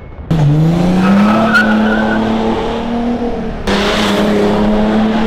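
Tuned Audi B7 Avant diesel with a modified exhaust, accelerating hard past the microphone. Its note rises in pitch for about a second, then holds steady. The sound jumps abruptly in level twice.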